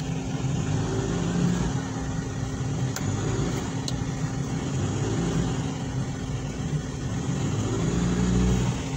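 Suzuki K6A three-cylinder engine running evenly with the automatic in Drive, heard from inside the cab, with slight swells in engine note. After its overhaul it runs smoothly, in good running condition.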